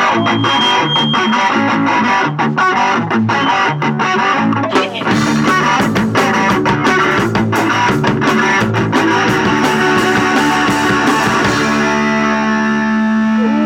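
Live punk rock band playing: distorted electric guitar over drums, settling into a held chord near the end.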